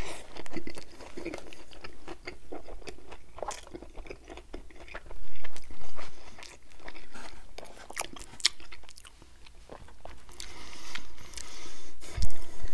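A person biting into a Burger King Whopper and chewing it, close to the microphone: a big bite at the start, then steady chewing with many small crunches and wet mouth clicks.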